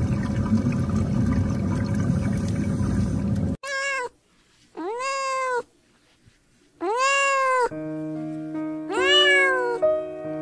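A steady noisy background cuts off suddenly. It is followed by four drawn-out animal calls, each rising then falling in pitch, and music comes in under the last of them.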